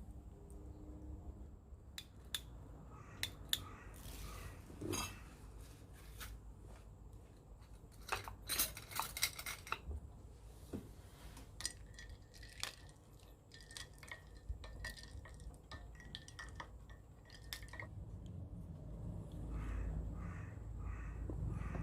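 Metal cookware and eating utensils clinking and knocking: scattered sharp clicks, with a denser clatter about eight to ten seconds in.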